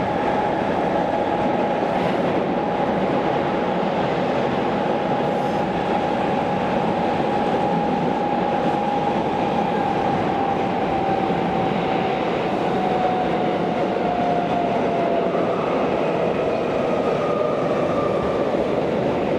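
Tokyo Metro 16000-series subway car heard from inside, with steady wheel-on-rail running noise. Over it, the traction motor's whine falls slowly and smoothly in pitch as the train slows on its approach to the next station.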